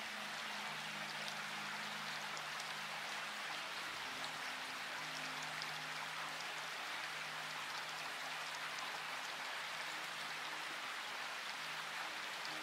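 Steady rain, an even hiss with light scattered drop ticks, under faint low held notes of soft background music that change every few seconds.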